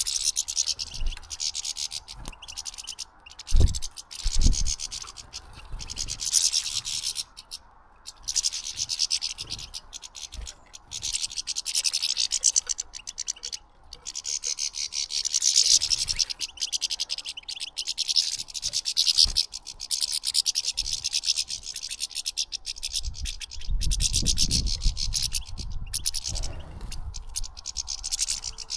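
A flock of European goldfinches twittering and chattering at a feeder, a continuous high, rapid chorus with short breaks. Two dull low thumps come a few seconds in, and a low rumble near the end.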